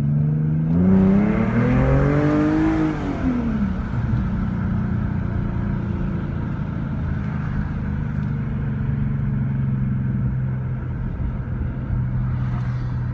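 2015 Ford Mustang's 3.7-litre V6 with its muffler deleted, heard from inside the cabin with the windows down. The exhaust note climbs in pitch for about three seconds, falls back, then settles into a steady low drone.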